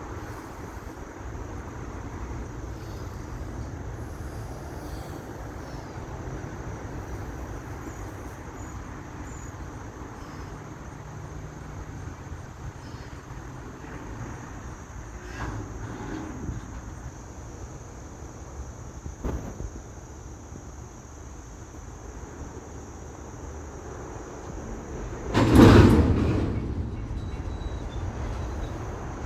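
Freight train rolling by, a steady low rumble with a few sharp clanks. About 25 seconds in there is a loud bang, the loudest moment, that fades over about a second.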